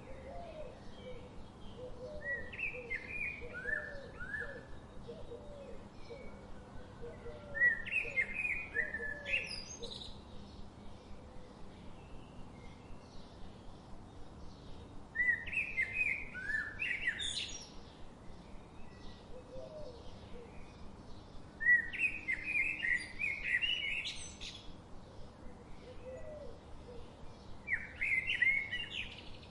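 A songbird singing the same short, jumbled phrase over and over, about every six seconds, each phrase ending in a quick rising note. Fainter, lower chirps from another bird and a steady outdoor hiss sit underneath.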